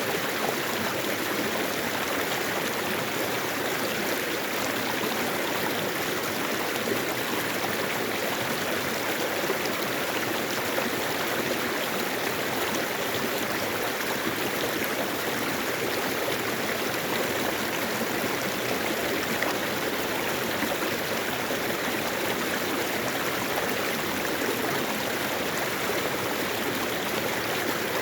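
Mountain valley stream flowing over rocks: a steady rush of running water with gurgling.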